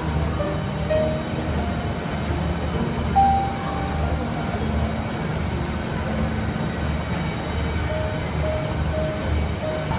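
A car engine running steadily at idle, with faint music behind it.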